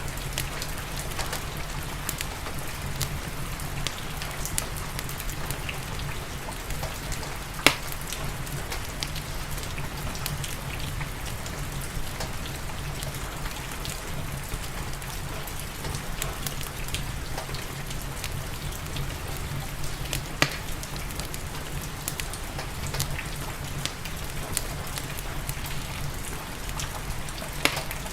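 Steady rain mixed with a crackling wood fire: an even hiss of rainfall with a low rumble beneath, dotted with faint ticks and a few sharp pops. The loudest pops come about a third of the way in, about two-thirds in and near the end.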